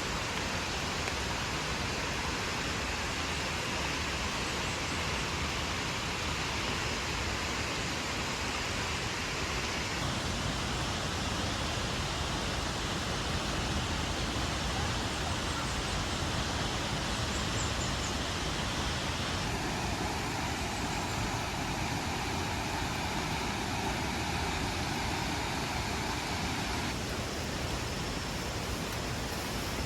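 Steady rushing hiss of falling water, heavy rain or the nearby waterfall, with no pauses. Its tone shifts abruptly three times.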